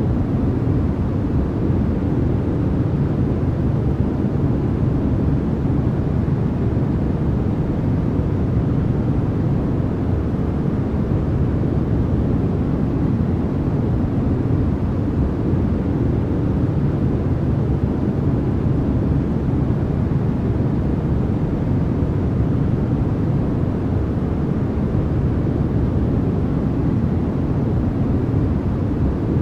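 Steady white noise, unchanging throughout, deep in tone: most of its energy sits low, with only a soft hiss above.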